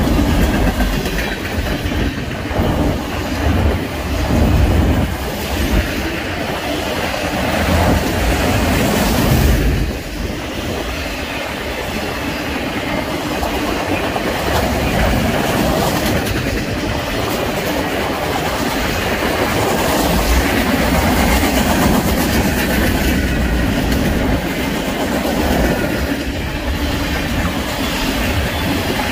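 Freight cars of a mixed manifest train (covered hoppers, autoracks, a tank car) rolling past close by: a steady rumble of steel wheels on rail with repeated clicks and clacks as the wheel trucks pass over rail joints.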